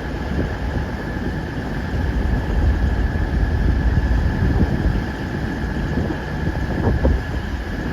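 Diesel multiple unit's engine running steadily at idle: a low rumble with a thin, steady high whine over it.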